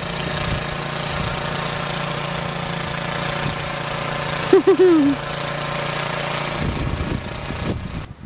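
An engine running steadily at an even pitch, with a short loud cry from a voice about halfway through; the engine sound changes and fades near the end.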